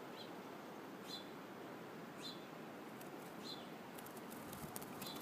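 Goldfinch fledgling giving short, faint, high chirps, about one a second, five in all.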